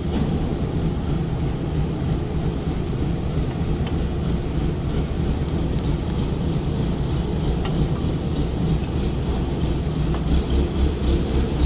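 Steady low rumble of running factory machinery, with a few faint clicks.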